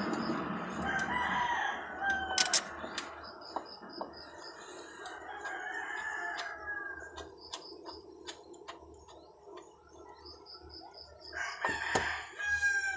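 A rooster crowing three times, with hens clucking and scattered light clicks in between.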